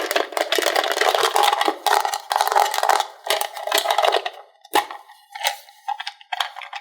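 Toy parts clattering and clicking rapidly, dense for about four seconds and then thinning to scattered clicks.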